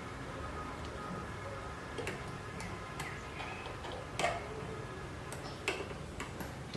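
A few scattered light clicks and taps of screws, tools and metal parts being handled while the Z-axis assembly is bolted together, over a steady faint background hum. The sharpest click comes about four seconds in.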